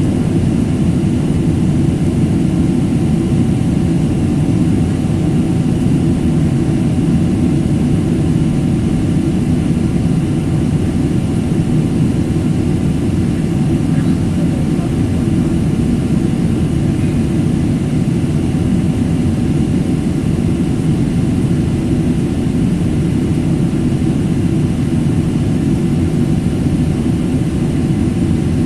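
Jet airliner noise heard from inside the cabin: a steady, even low rumble of engines and airflow with a faint constant hum, unchanging throughout.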